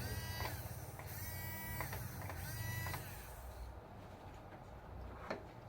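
Electric drive motor and gearbox of a Huina 1569 RC bulldozer whining in three short bursts as it is run on the bench, followed by a single click near the end.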